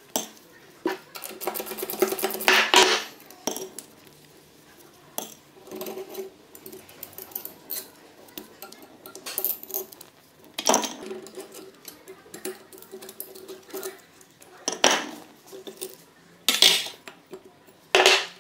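Metal tools and engine parts clinking and knocking during engine teardown. A quick run of ticks comes near the start, and louder clanks come every few seconds after.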